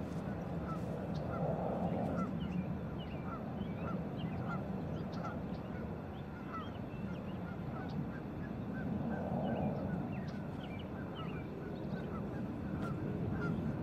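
A bird calling over and over in short calls, a little more than one a second, against steady wind noise.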